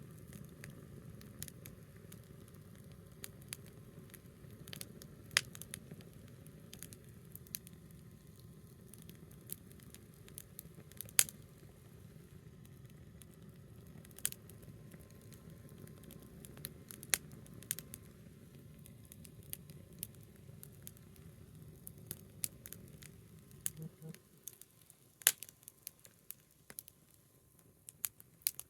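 Small wood campfire crackling, with scattered sharp pops of burning wood. A low background rumble under it drops away near the end.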